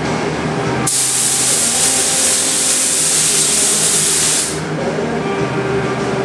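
Compressed-air paint spray gun spraying primer in one even hiss of about three and a half seconds that starts and stops sharply as the trigger is pulled and let go. A steady machine hum runs underneath.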